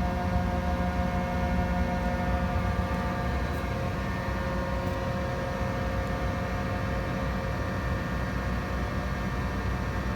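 1967 Rockford hydraulic open side planer running: a steady machine hum with several steady whining tones over it. The strongest of the whining tones fade out about four seconds in.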